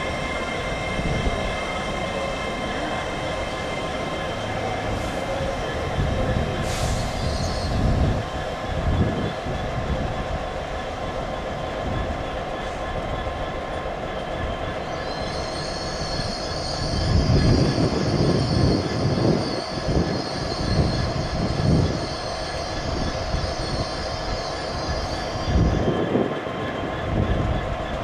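Train running on the rails, with a steady rumble, irregular thuds and a high wheel squeal that starts about halfway through and lasts some ten seconds.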